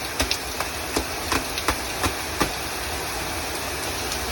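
Heavy rain falling in a steady hiss with a low rumble underneath, and a string of sharp close taps of drops in the first two and a half seconds.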